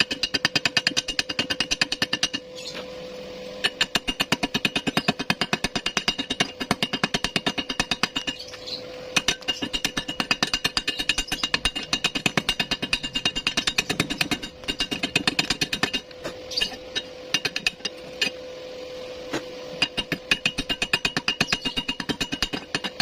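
Rapid, repeated strikes on metal, several a second, in runs broken by short pauses, with a steady hum underneath.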